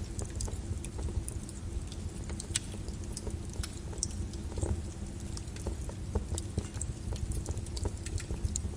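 Flowing lava crackling, with irregular small pops and clicks over a steady low rumble.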